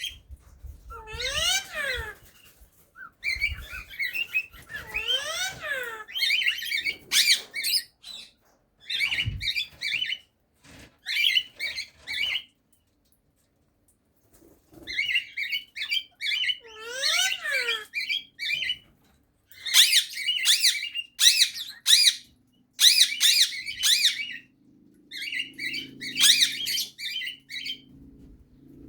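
Cockatiel singing: bursts of squeaky, warbling chatter broken by a few whistled notes that swoop up and back down.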